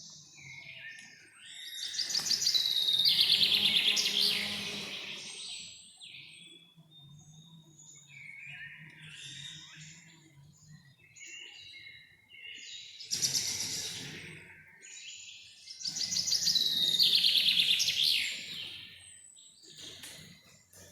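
Songbirds singing. There are two loud, fast trilling phrases, one about two seconds in and another near the end, with softer scattered chirps between them.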